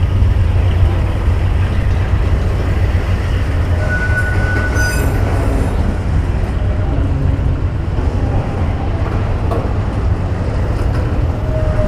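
Freight train of autorack cars rolling past: a steady rumble and rattle of steel wheels on rail, with a brief high wheel squeal about four seconds in.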